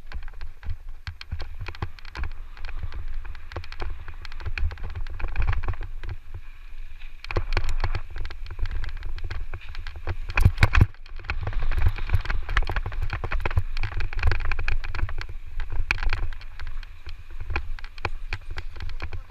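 Electric mountain bike riding over a dirt trail: wind buffeting the microphone, with constant clattering and knocks from the bike and tyres over the rough ground and a harder burst of knocks about ten seconds in.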